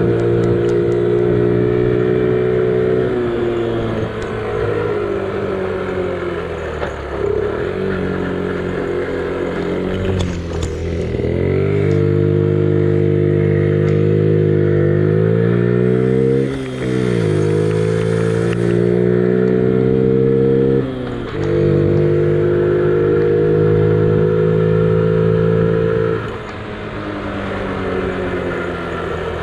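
Honda Gorilla minibike's small four-stroke single-cylinder engine under way: a steady running note whose pitch climbs as it accelerates, twice dips sharply and climbs again, and falls and quietens near the end as the throttle eases off.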